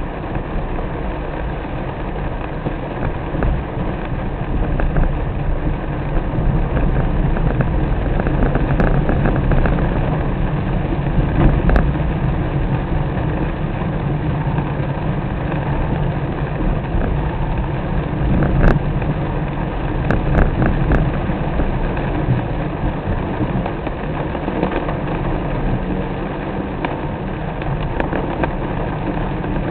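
Car driving in the rain, heard from inside: a steady low engine and road rumble under the hiss of rain, with a few sharp taps now and then.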